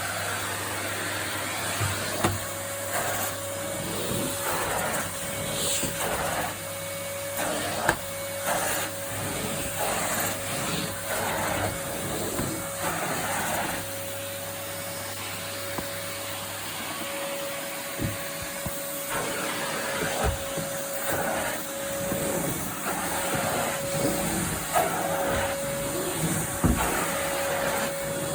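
2001 Numatic Henry vacuum cleaner running with really strong suction: a steady motor hum with a held tone, broken by frequent brief rushes of air and knocks.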